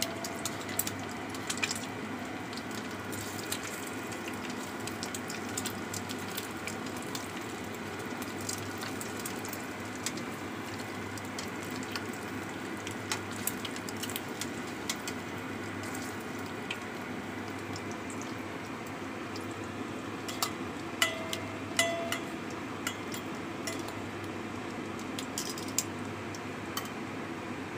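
Egg-coated pieces of jenang gulo frying in hot oil in a wok: a steady sizzle with scattered crackles and spits of oil. A few clicks of a turner against the pan come about three-quarters of the way through.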